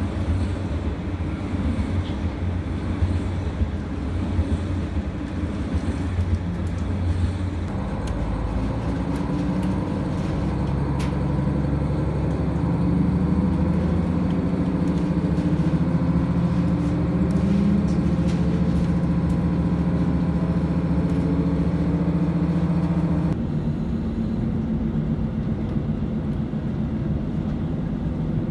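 Diesel railcar heard from inside the cabin: the engine hums at idle while stopped at a passing loop as an express goes by alongside. About eight seconds in, the engine opens up and the train pulls away and accelerates. The engine note drops back a few seconds before the end as the power is eased off.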